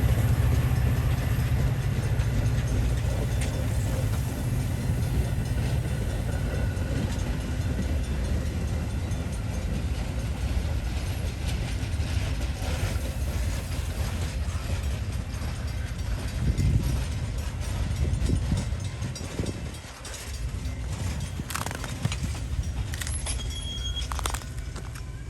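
Metra commuter train rolling through the station: a steady low rumble that slowly fades, with clanks, rattles and a brief high squeal near the end.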